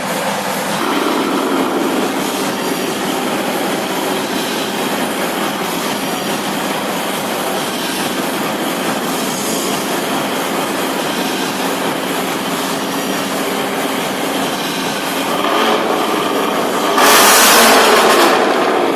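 Ford Mustang GT's 5.0 V8 through a straight-pipe exhaust, running steadily, then a much louder burst about two seconds before the end.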